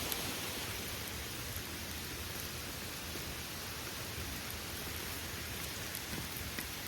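Waterfall: a steady rush and splatter of falling water close by.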